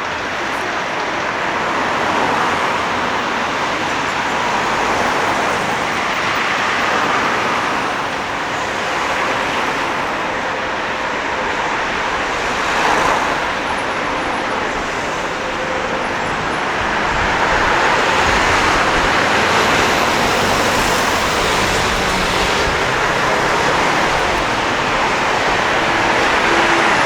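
Street traffic: a steady wash of passing cars and other vehicles, with one brief louder pass about 13 seconds in.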